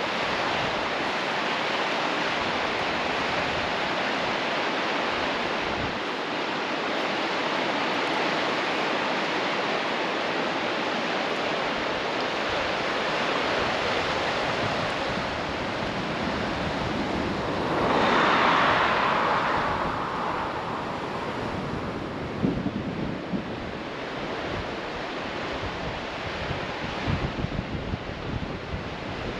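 River water rushing steadily, with a louder swell about eighteen seconds in. Wind knocks on the microphone now and then near the end.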